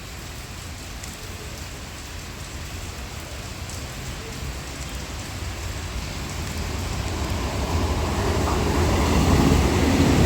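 Heavy rain falling steadily, while a Vande Bharat electric multiple-unit train approaches, its rumble swelling steadily louder over the second half.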